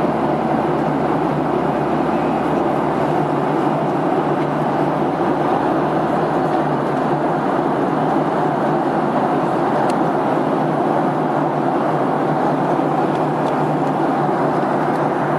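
Steady airplane cabin noise in flight: engine and airflow noise heard from inside the plane.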